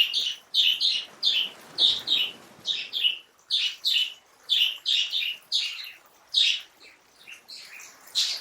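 A bird chirping repeatedly: short, high chirps in quick runs of two or three, one run after another with brief pauses between.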